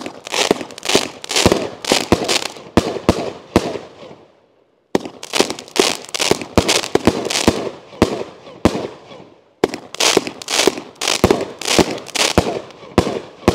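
A 25-shot consumer fireworks cake (crackle mine to new colour dahlia with a crackle willow finale) firing: a rapid string of launch reports and bursts with crackling. It comes in three runs, with short silences just after four seconds in and about nine and a half seconds in.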